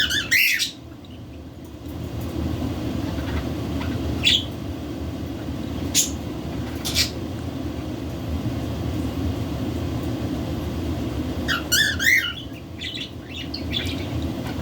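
Pet budgerigars giving short chirps and squawks, with a longer wavering run of chirps about twelve seconds in, over a steady low rumble.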